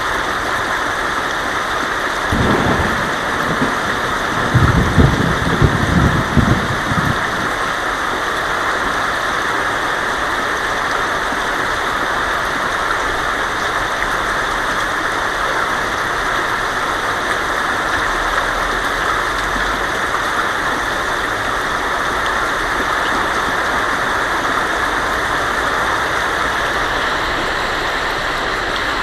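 Heavy rain falling steadily on a tin roof. Thunder rumbles twice: briefly about two seconds in, then louder for a few seconds from about four seconds in.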